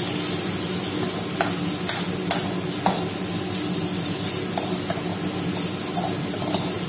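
Onion-tomato masala with spice powders sizzling in oil in a stainless steel kadai while a steel spatula stirs it, its strokes against the pan heard as irregular scrapes and taps. Underneath runs a steady low hum.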